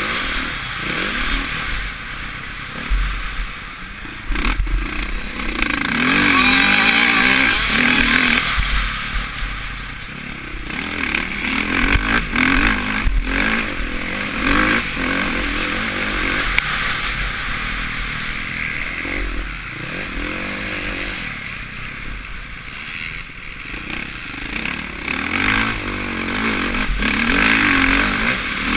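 Suzuki RM-Z450 four-stroke single-cylinder motocross engine revving up and falling back again and again, the rider working the throttle around the track, heard from a helmet-mounted camera with wind rushing over the microphone. A few short knocks come through along the way.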